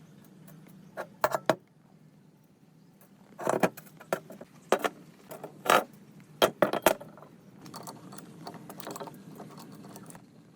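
Metal tools and parts being handled: a dozen or so irregular clinks and knocks, the loudest a little past the middle, over a faint low hum.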